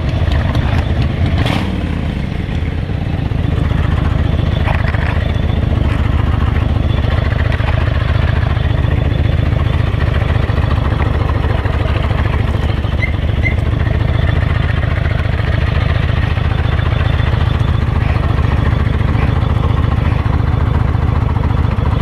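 Motorcycle engine idling steadily close by, with one sharp click about a second and a half in.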